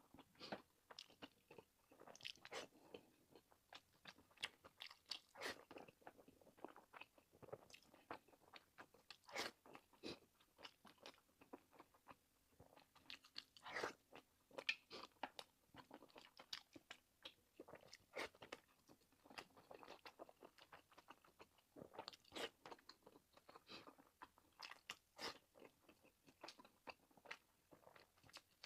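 A person chewing and biting food close to the microphone: egg fried rice and spicy pork sausage. The sound is irregular moist crunches and clicks, a few a second.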